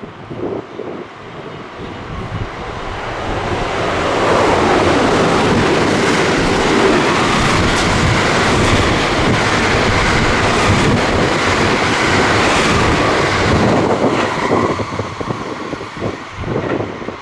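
Electric train passing at speed: the rumble and rush builds over a couple of seconds, stays loud for about ten seconds as the cars go by, then fades away.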